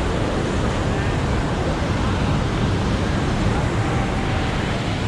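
Ocean surf breaking on a sandy beach as a steady wash of noise, with wind rumbling on the microphone.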